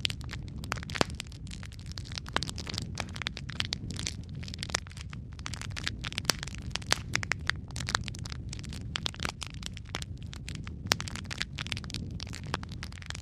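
Wood fire crackling in a fireplace: a steady low rumble of burning logs with frequent irregular pops and snaps.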